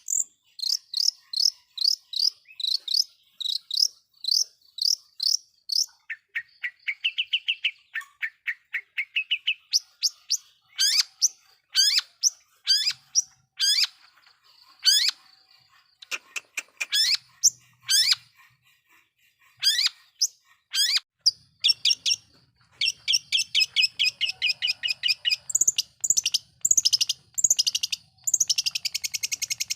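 Long-tailed shrike (cendet) singing a fast, varied song. It opens with runs of short repeated high notes, moves into a series of quick rising sweeps, then louder sweeping notes, and ends in rapid chattering runs.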